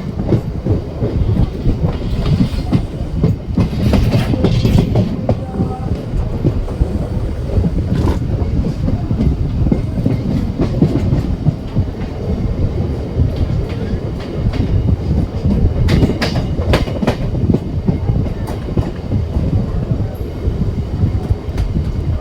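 Passenger train running into the station, a steady heavy rumble with repeated clacks of its wheels over the rail joints.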